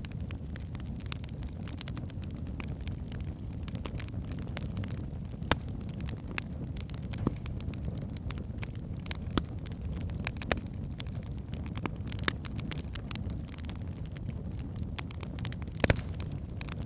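Wood fire burning in a fireplace: a steady low rush of flames with frequent sharp crackles and pops from the logs, a few louder snaps standing out, one about five seconds in and another near the end.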